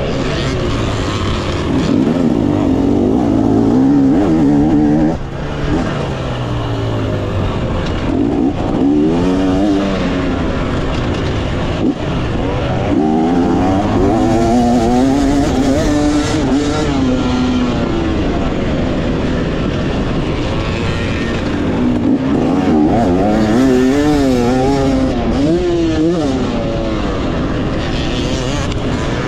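Two-stroke Yamaha YZ250X dirt bike engine ridden hard around a motocross track. Its pitch climbs with each burst of throttle and falls back between, again and again, with a short throttle chop about five seconds in.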